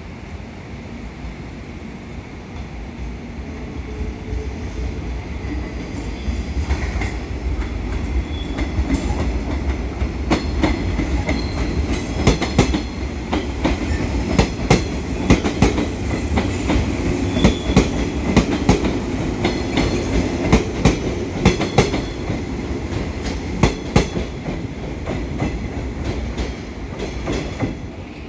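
Train running on track, its wheels clicking over rail joints. The sound builds from about four seconds in, and the clicks come thick and loud from about nine seconds until a few seconds before the end.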